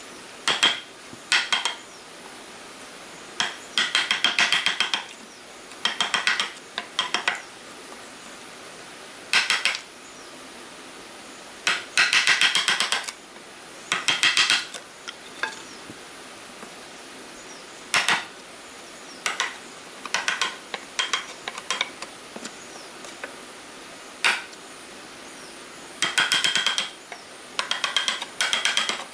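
Hand woodworking tools at work: bursts of rapid, sharp metallic-ringing knocks, each up to about a second and a half long, separated by short pauses.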